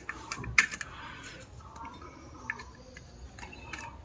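Scattered light clicks and taps of metal ceiling-fan parts being handled while the fan is taken apart, the sharpest about half a second in.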